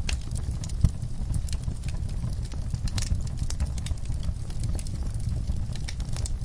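Wood fire in a fireplace crackling, with irregular sharp pops over a steady low rumble. One louder pop comes a little under a second in.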